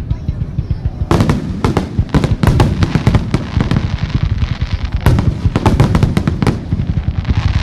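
Japanese star mine fireworks barrage: a dense, continuous stream of low launch thumps and shell bursts, with sharp crackling bangs setting in about a second in and again about five seconds in.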